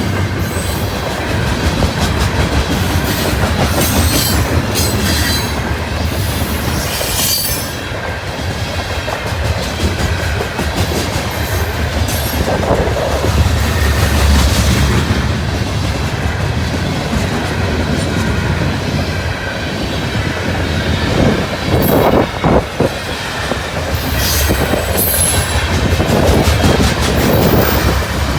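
A CN potash freight train's cars rolling past: a steady heavy rumble of wheels on rail with clicking over the joints and brief high squeals now and then. Brisk wind buffets the phone microphone.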